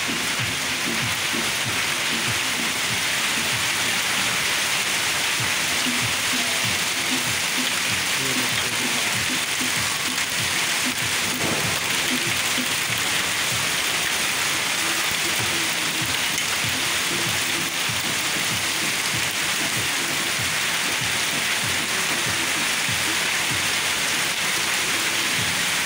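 Heavy rain pouring down steadily, a dense hiss of drops striking the roof and the ground close by.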